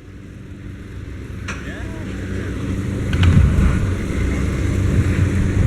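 A motor vehicle's engine running with a low, steady hum that grows steadily louder over several seconds, as it approaches.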